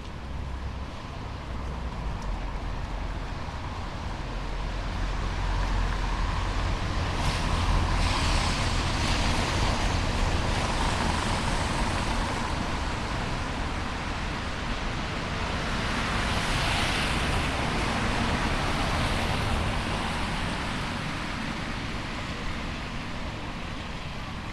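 Road traffic on a wet city street: cars passing with tyre hiss and engine rumble, swelling twice as vehicles go by.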